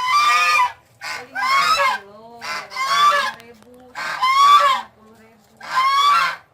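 Farm fowl calling: a run of about five loud, harsh calls, each under a second, with a fainter lower call sounding in the gaps between them.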